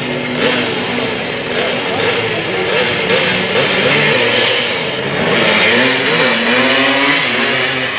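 Small-displacement dirt drag motorcycle engines revving, their pitch rising and falling repeatedly, with more than one engine heard at times.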